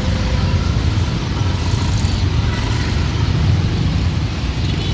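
Dense street traffic of motorbikes, cars and tuk-tuks running steadily, a continuous low rumble of engines.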